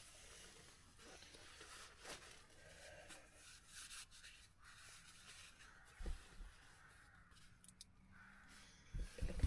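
Faint rustling and scattered light clicks, with a soft thump about six seconds in and a few more just before the end.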